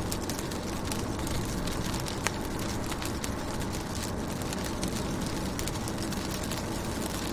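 Rain falling on a car window: a steady hiss with many scattered drop ticks and one sharper tick about two seconds in, over a steady low rumble.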